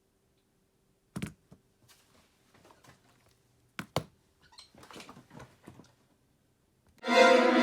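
A few small sharp clicks and knocks of a smartphone and its parts being handled on a work surface, with faint scraping and tapping between them. Music starts near the end.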